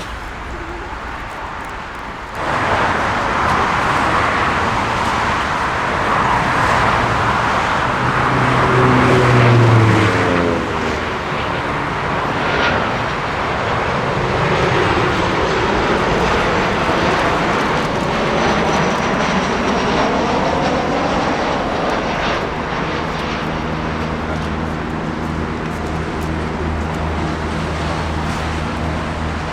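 Jet airliner's engines roaring loudly as the aircraft passes, with a falling whine around ten seconds in. Later the roar settles into a steadier low hum.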